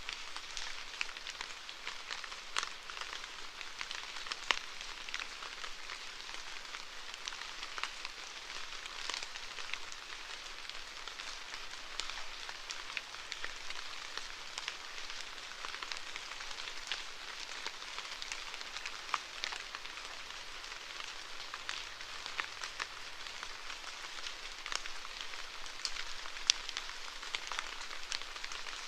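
Steady rain falling, a constant hiss with many separate drops tapping sharply throughout.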